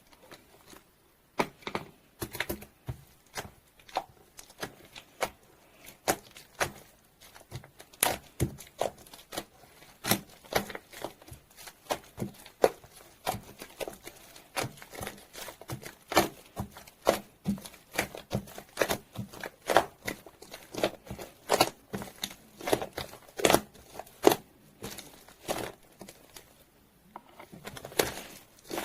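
Green foam slime being squeezed and worked by hand, giving off irregular sharp sticky pops and crackles, one to three a second, with a short lull near the end.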